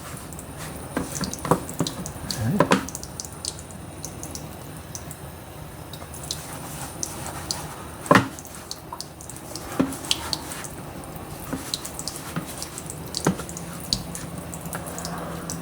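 Kitchen tap running a thin stream of water into flour for dumpling dough, with scattered small clicks and a few sharper knocks.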